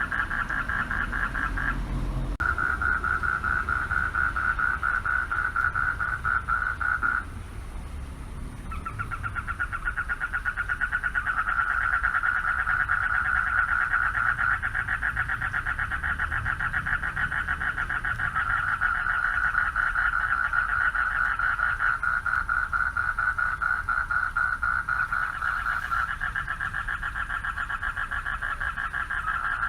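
Chorus of male frogs calling for mates at a pond: a dense, rapidly pulsing trill that drops out briefly about two seconds in and again for over a second around seven seconds in, then resumes.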